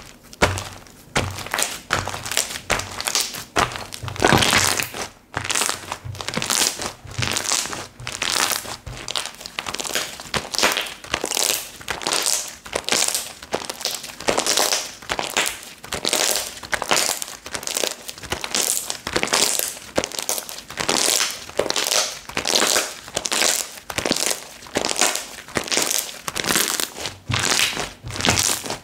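Slime being squished and pressed by hand: a steady rhythm of noisy squishes, about one and a half a second.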